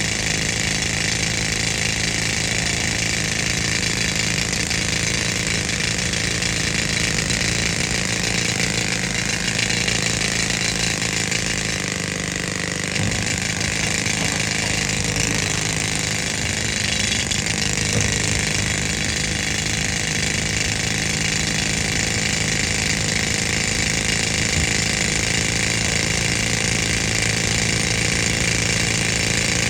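Old air-compressor engine running steadily under load while a pneumatic rock drill hammers, a loud continuous clatter and hiss that eases briefly about twelve seconds in.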